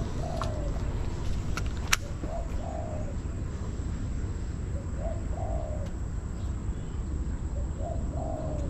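A bird calling with a low two-part phrase, a short note then a longer one, repeated four times about every two and a half seconds over a steady low rumble. There is one sharp click about two seconds in.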